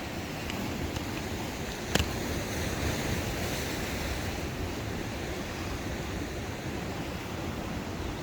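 Ocean waves breaking, with wind on the microphone, as a steady wash. A single sharp click about two seconds in.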